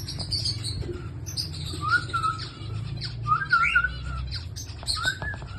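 Pet lovebirds and a cockatiel calling: a constant stream of rapid, high chirps, with three louder warbling calls about a second and a half apart, over a steady low hum.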